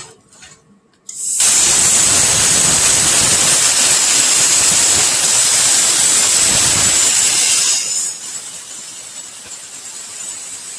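CNC plasma cutting table's plasma torch cutting sheet metal: a loud, steady hiss that starts abruptly about a second in and drops to a much fainter hiss about eight seconds in.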